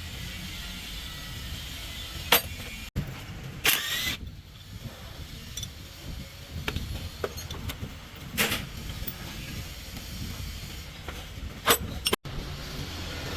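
Workshop handling noises: a few sharp knocks and a short scrape, like tools and metal parts being handled during gearbox work, over a steady low hum.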